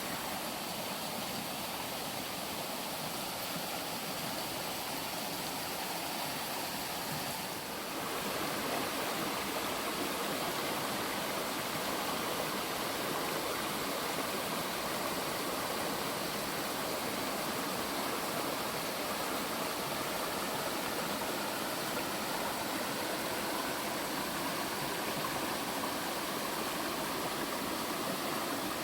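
Steady rushing noise of flowing water, even and unbroken, that becomes slightly louder and fuller about eight seconds in.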